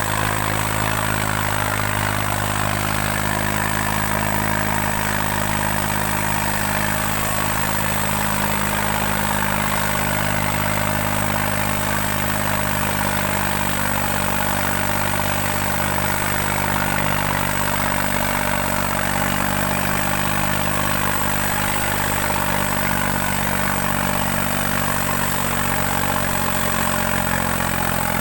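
New Holland 3630 tractor's diesel engine running steadily while pulling two harrows, its pitch shifting slightly near the end.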